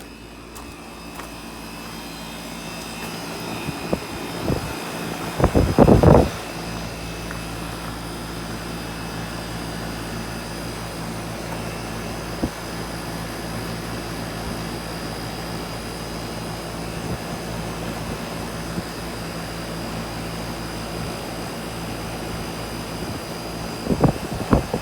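A 3-ton Miller central air conditioner's outdoor condensing unit starting up: the sound builds over the first few seconds, then runs steadily with the hum of the compressor and the rush of the condenser fan. A short burst of loud knocking or rattling comes around six seconds in, and another near the end.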